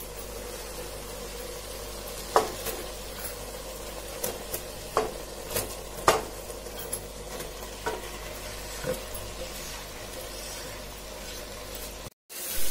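Chicken tikka pieces scraped off a pan with a spatula into a pot of hot, oil-separated yogurt masala, sizzling steadily, with occasional sharp knocks and scrapes of the spatula against the pan. The sound cuts out for an instant near the end.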